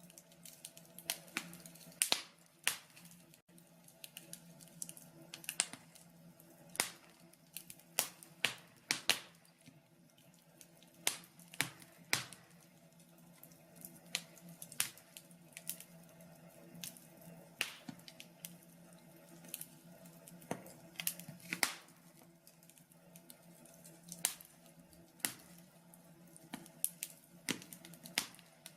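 Wood fire burning in a log burner, crackling with irregular sharp pops and snaps, some louder than others, over a faint steady low hum.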